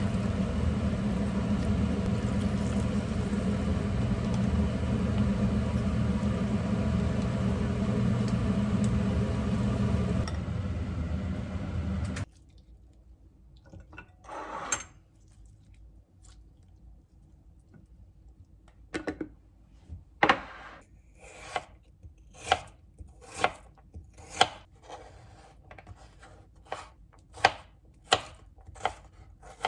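A kitchen appliance motor runs steadily with a low hum, then cuts off suddenly about twelve seconds in. After a pause, a knife strikes a cutting board a few times, then chops in a steady rhythm of about one and a half strokes a second.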